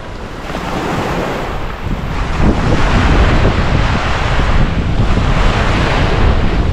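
Ocean surf breaking on a beach, with wind buffeting the microphone in a heavy low rumble. The surf swells louder about two and a half seconds in.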